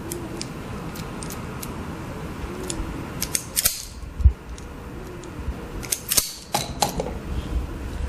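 Hand tools clicking and snipping as wiring is worked on inside a 3D sublimation heat press: scattered sharp clicks, with two louder scraping snaps about three and a half and six seconds in, over a steady low hum.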